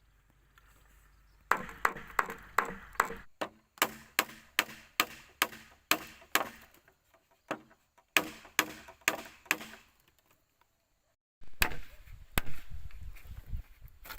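A blade chopping wood: a long run of sharp strikes, about three a second, with a couple of short pauses. After a brief silence, two more strikes come over outdoor background noise.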